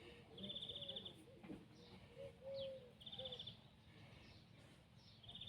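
Faint birdsong: a rapid high trill heard twice, short falling chirps, and low arched cooing notes in between.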